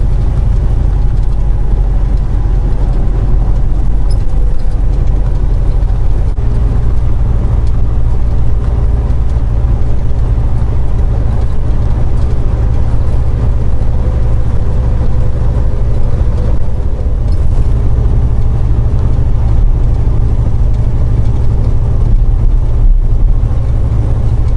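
Semi truck's diesel engine and road noise heard from inside the cab while it drives at highway speed: a loud, steady low drone.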